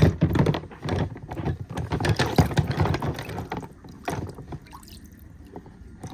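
Metal and plastic parts of a Spinlock XTS rope clutch being handled in a container of cleaning liquid: a busy run of clicks, rattles and splashes over the first four seconds, then quieter handling.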